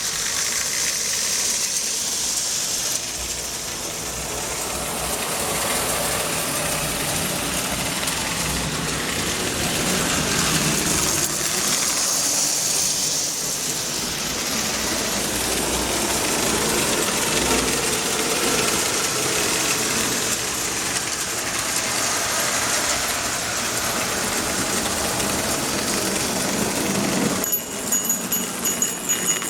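Marx 1666 toy train locomotive running on its track, its electric motor whirring and the wheels and cars rattling along in a steady run that swells and fades slowly. About two seconds before the end the running sound cuts out and a few steady high tones ring over a choppy, uneven sound.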